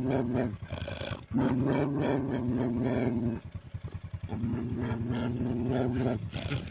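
Dog growling in long, steady bouts of about two seconds each, with short breaks between them.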